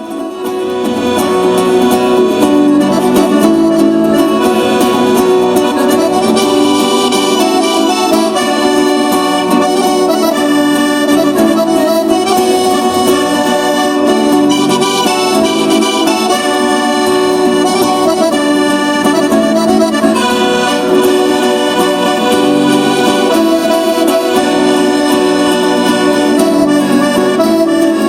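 Southern Italian folk music led by an accordion playing a tune over other instruments, fading in at the start, with no singing.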